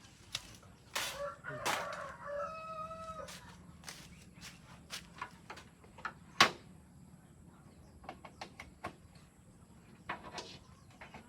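A rooster crowing once, about two seconds in, amid scattered sharp knocks and clicks; the loudest knock comes a little past six seconds.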